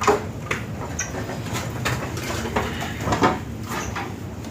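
Irregular knocks and clatter, a handful of sharp strikes over a few seconds, over a steady low rumble.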